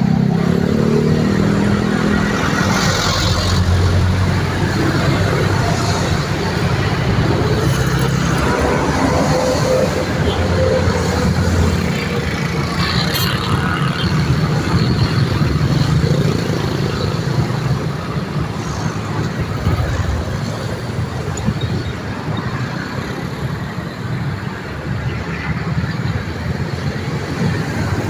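Busy road traffic: a continuous stream of motor vehicles passing with engines running and tyre noise, a little quieter in the last third.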